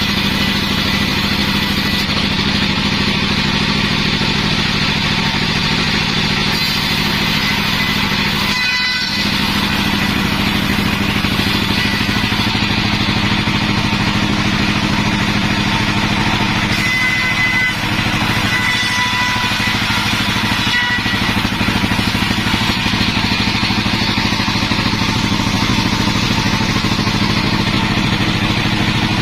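Sawmill machinery running steadily: a loud, constant engine drone with a low hum, dipping briefly twice.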